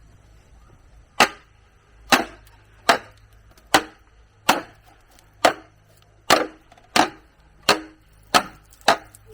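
Chopping blows on wood: eleven sharp, evenly paced strikes a little under a second apart, the first about a second in.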